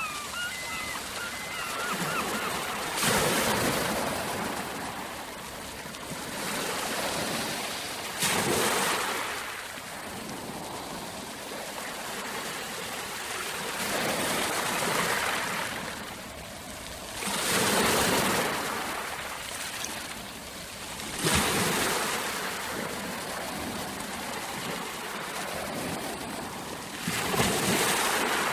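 Ocean waves washing in, about six louder surges a few seconds apart over a steady wash of water noise.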